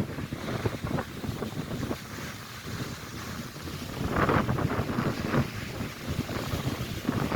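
Strong wind buffeting the microphone over crashing lake waves. The rushing wash swells loudest about four seconds in and again a second later.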